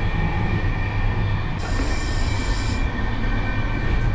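Running noise of a moving Intercity passenger train, heard from inside its toilet cabin: a steady deep rumble with a thin, steady high whine over it. A brief hiss comes in about a second and a half in and fades a second later.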